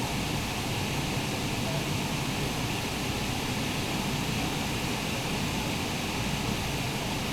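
Steady rushing noise of a thunderstorm, heavy rain and wind, with no single gusts or claps standing out.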